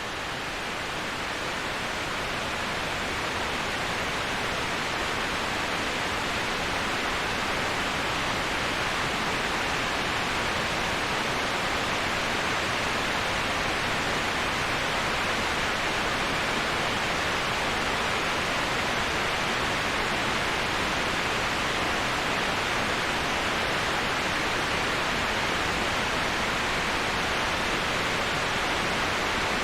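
Steady, even rushing of a waterfall used as white noise, getting a little louder over the first few seconds and then holding level.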